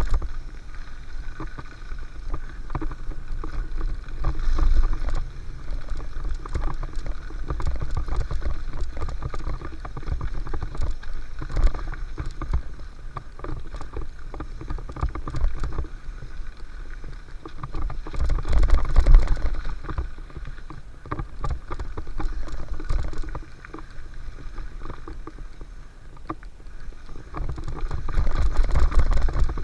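Mountain bike riding down a dirt flow trail: a steady low rumble of wind and rolling tyres, swelling louder a few times, with frequent short rattles and knocks from the bike over bumps.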